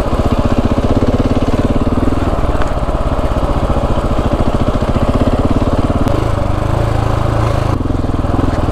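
Husqvarna 701's single-cylinder engine running at low speed with an even, steady pulse as the dirt bike is ridden slowly over rutted trail. The engine note shifts briefly about six seconds in.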